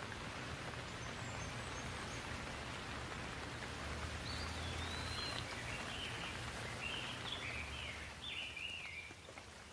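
Rain falling steadily with an even hiss that eases slightly near the end. From about four seconds in, a bird calls repeatedly in short, chirpy, stepped phrases over the rain.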